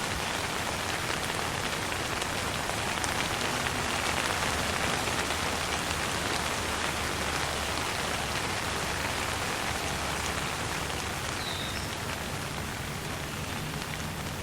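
Steady light rain falling: an even hiss with scattered single drops ticking through it.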